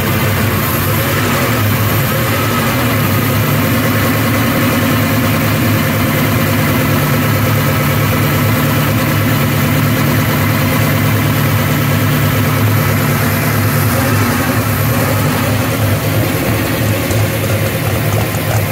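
1921 Sunbeam Grand Prix car's straight-eight engine idling steadily, an even multi-cylinder beat with no revving.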